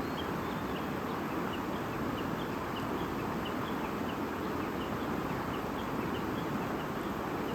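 A stream babbling steadily, with a bird chirping short, high notes over it, about two or three a second.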